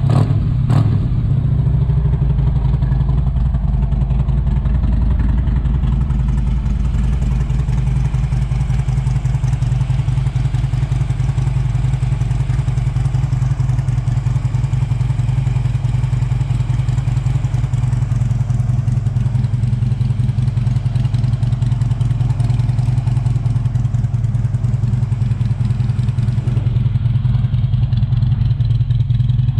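2015 Harley-Davidson Road King's Twin Cam 103 V-twin engine idling steadily through its Vance & Hines exhaust.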